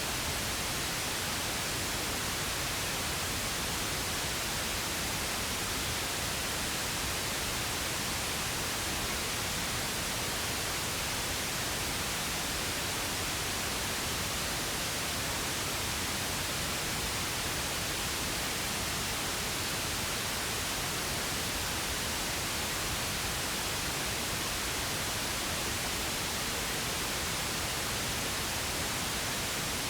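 Synthetic pink noise: a steady, even hiss with no change.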